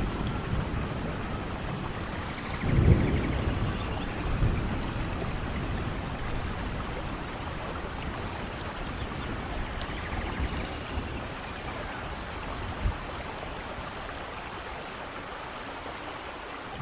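Steady rain falling, with brief low rumbles of thunder, the loudest about three seconds in.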